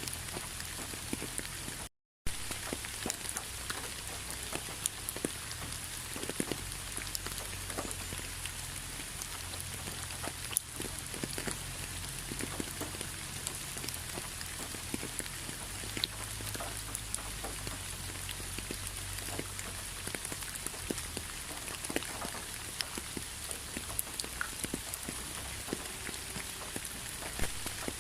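Steady rain with many separate drops pattering, cut off briefly by a gap of silence about two seconds in.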